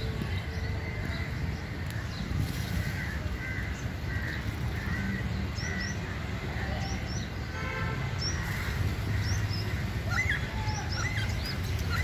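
Small birds chirping, many short high chirps scattered through, over a steady low rumble of outdoor background noise.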